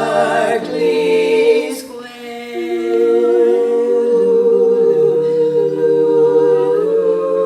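Barbershop quartet singing a cappella in close harmony: a phrase is sung, then several voices hold a long sustained chord.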